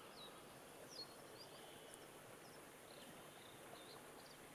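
Near silence with a few faint, short, high bird chirps scattered through it.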